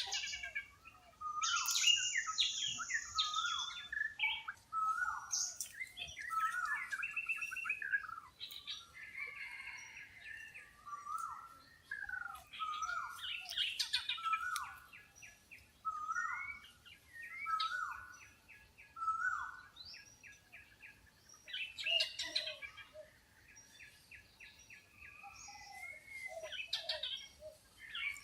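Several wild birds calling together. A short falling whistled note repeats every second or two, with rapid trills and a few high thin notes over it.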